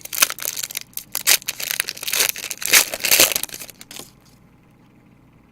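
Crinkling and tearing of a trading-card pack wrapper as it is handled and ripped open, in dense irregular crackles that stop about four seconds in.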